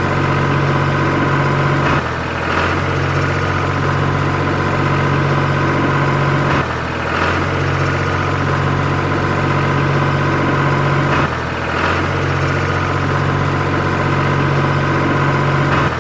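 Steady engine-like drone that dips and changes briefly about every four and a half seconds, as if repeating.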